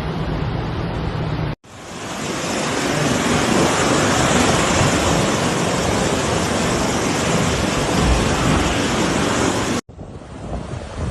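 Loud, steady rushing of fast-flowing floodwater, with wind noise on the microphone. The sound cuts off abruptly about a second and a half in and again near the end, where a new stretch of the same kind of noise starts.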